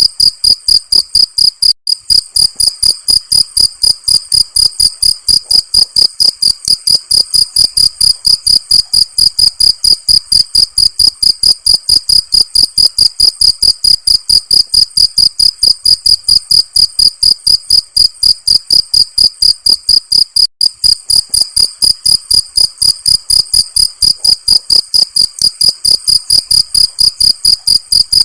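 Cricket chirping loudly in a fast, even rhythm of about four to five pulses a second, a shrill high tone. The pulse train breaks off for an instant twice.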